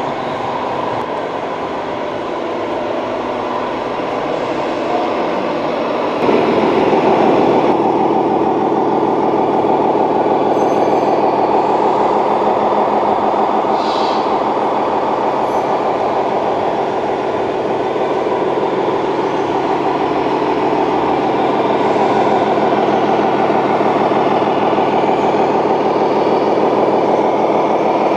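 Simulated diesel truck engine sound from a scale RC truck's sound module, running steadily and stepping up louder about six seconds in, as if revving under load.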